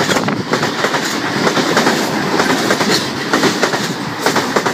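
Sydney Trains V-set intercity electric train running through the station at speed without stopping: a steady rush of wheels on rail with rapid, irregular clacking over the rail joints.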